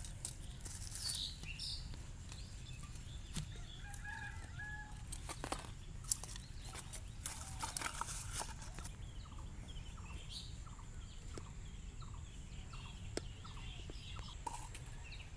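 Birds calling: scattered short chirps, then a run of short, evenly spaced calls about two a second in the second half. Sharp clicks and rustles come and go throughout.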